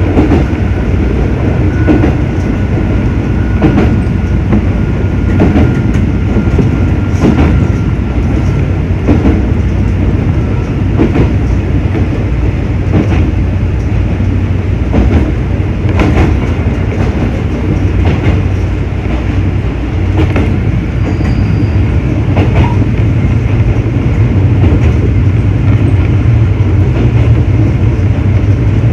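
Electric local train running between stations, heard from the front car: a steady low rumble with the wheels clicking over rail joints every second or two. A faint steady whine fades out about ten seconds in.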